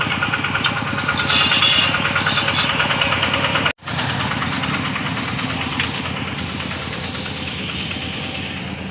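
Heavy construction machine's diesel engine running with a rapid, steady throb, swelling louder with some high rattle about a second and a half in. The sound cuts out for an instant near four seconds in, then carries on.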